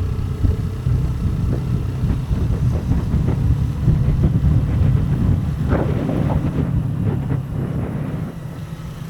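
Wind buffeting the microphone over the low rumble of a motorcycle riding along the road, easing slightly near the end.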